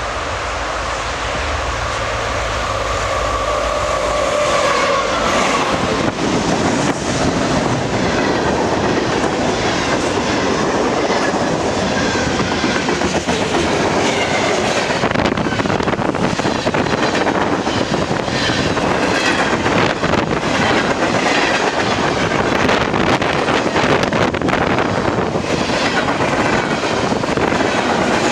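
A freight train with an old CSX GE Dash 8 diesel locomotive passes close by. A steady tone from the passing locomotive dips slightly and fades about five seconds in. Then the cars roll by with a dense clicking of wheels over the rail joints and an occasional faint wheel squeal.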